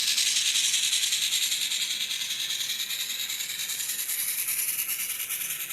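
Model train running on its track, pulling light, unweighted passenger cars: a steady high rattle of wheels on rails, fading slightly as the train moves away.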